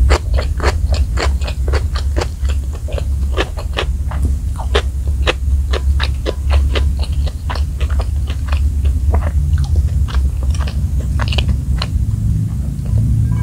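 Close-miked chewing of crispy fried food, with a quick run of sharp crunches, several a second, over a low steady hum.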